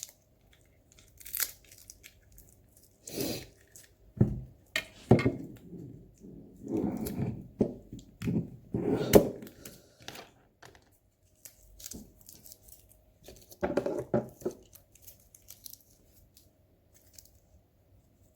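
Packaging being torn open by hand: tape and wrapping ripped and crinkled in irregular bursts, busiest in the middle and again near the end, with a faint steady hum underneath.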